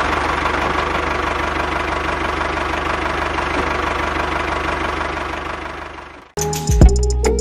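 Engine running steadily at idle with an even, knocking pulse. It fades out about six seconds in, and music with a beat starts just before the end.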